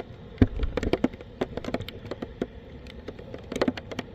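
Water splashing and dripping onto the phone's microphone, making irregular sharp taps and clicks over a faint hiss.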